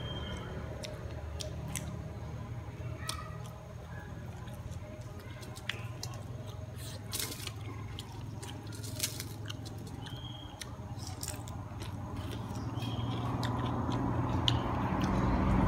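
Close-up chewing and biting of crispy fried chicken wings: scattered crunches and wet mouth sounds. A low background rumble grows louder near the end.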